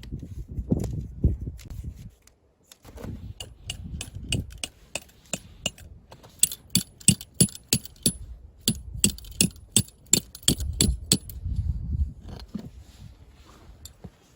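A rapid, irregular run of sharp metallic clinks, several a second and loudest in the middle, as metal camping gear is handled, over a low rumble of handling and wind on the microphone.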